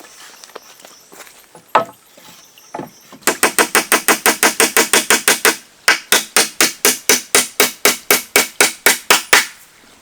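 Hammering: two single knocks, then two long runs of rapid, evenly spaced blows at about six a second, with a brief pause between the runs.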